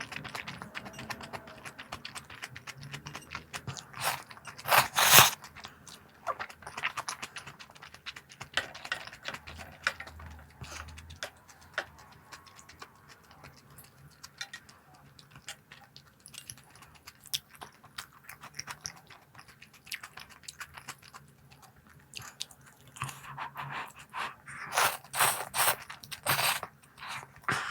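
Crunchy snack being bitten and chewed close to the microphone, a run of crisp crackling crunches. The loudest bites come about five seconds in and again as a cluster near the end.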